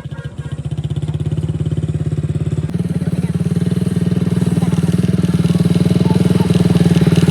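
Motorcycle engine running with a rapid, even exhaust beat. It picks up slightly about three seconds in and grows louder toward the end.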